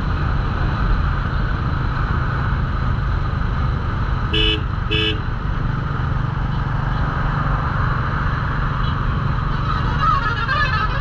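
Royal Enfield Classic 350's single-cylinder engine running at a steady cruise, with wind noise. A horn gives two short beeps about four seconds in.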